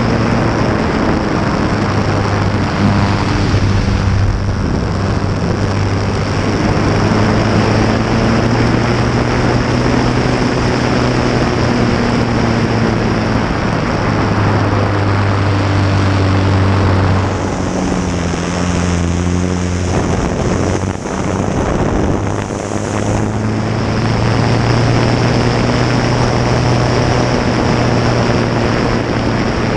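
Engine and propeller of a Fournier light aircraft in flight, heard close up from the cowling, with heavy rushing airflow. The engine runs steadily, and its note shifts and briefly dips a little past the middle as the aircraft flies aerobatic figures.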